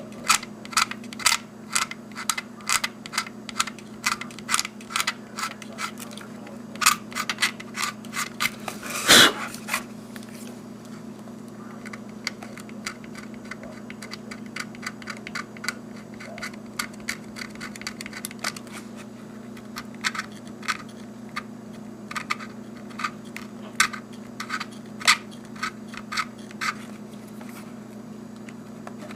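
A knife blade scraping the printed numbers off the side of a plastic HO scale model locomotive shell: short, irregular scratchy strokes, thick and quick for the first ten seconds and sparser after, over a steady low hum.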